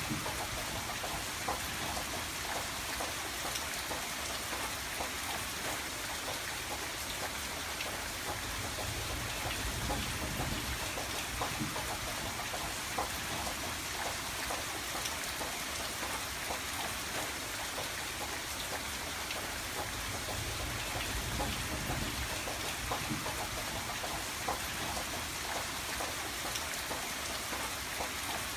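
Steady rain pattering against a window, many small drops ticking over a continuous wash, with a soft low rumble that swells and fades.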